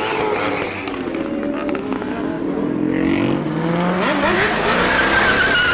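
Dodge Charger R/T's V8 engine running as the car pulls away, then revving up with a pitch that climbs steeply about three seconds in.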